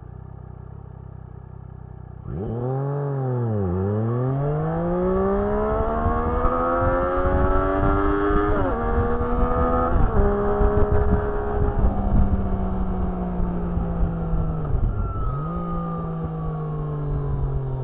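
Triumph Street Triple S 660's inline three-cylinder engine idling, then pulling away hard about two seconds in. The revs sag briefly as the clutch takes up, climb for several seconds, drop in two quick upshifts, then hold and slowly fall, with one more brief dip near the end.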